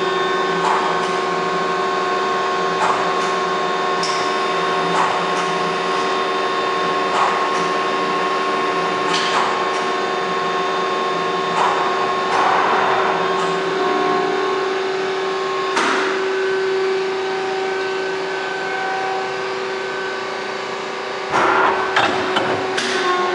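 Romi CNC lathe running, with a steady whine and hum, sharp clicks about every two seconds, and a few louder bursts of noise, the loudest near the end.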